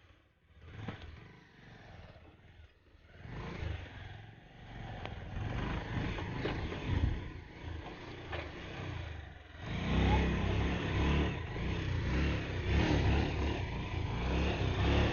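Motorcycle engine running while riding an off-road trail, with knocks and rattles from the rough ground; it grows much louder about ten seconds in.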